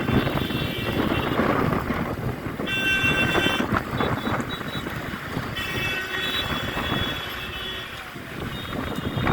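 Rumbling road-traffic noise, with a vehicle horn sounding four times in held blasts of about a second each.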